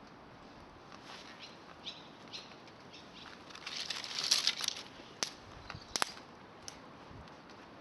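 Small fire of climbing-rose twigs crackling, with a dense burst of crackling a little past the middle and a few sharp pops after it.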